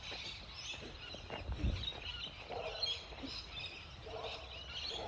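Wild birds calling: many small birds chirping high and without pause, with a lower, rougher call twice, around the middle and near the end. A soft low thump about a second and a half in.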